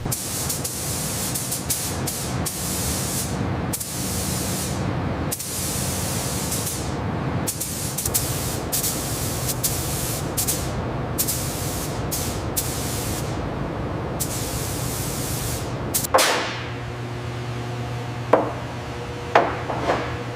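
Paint spray gun hissing in a string of bursts of varying length as the trigger is pulled and released, followed near the end by a few short, sharp sounds.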